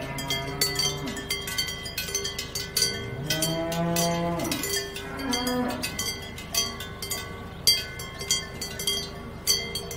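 Cows mooing, one long moo about three seconds in that rises and falls, then a shorter one right after, over the steady clanking and ringing of cowbells as the herd walks.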